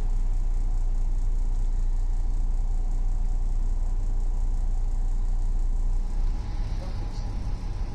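Interior running noise of a VR Sm2 electric multiple unit at speed: a steady low rumble of the carriage running on the rails. About six seconds in, the rumble eases slightly and a higher hiss comes up.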